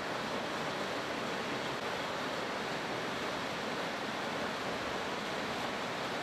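River water rushing over a series of small falls and cascades: a steady, unbroken wash of white-water noise.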